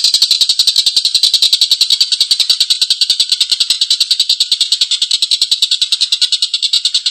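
Stork-billed kingfisher (tengkek buto) giving its long, harsh rapid chattering call ('ngekek panjang'), about a dozen sharp notes a second without a break.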